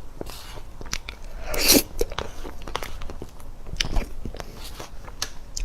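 Close-miked eating sounds: crisp bites, crunching and chewing in a run of small clicks, with one loud crunching bite about one and a half seconds in.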